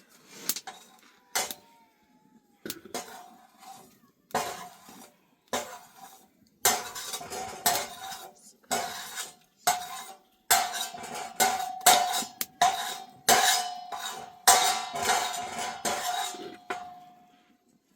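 A metal utensil knocking and scraping against a metal cooking pot over and over, with the pot ringing after the strokes. The strokes come sparsely at first, then thicker and faster for the second half, and the ring fades out near the end.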